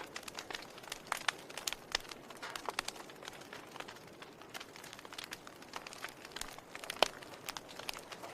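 Wood fire burning, with irregular crackles and pops over a soft steady hiss of the flames; one louder pop about seven seconds in.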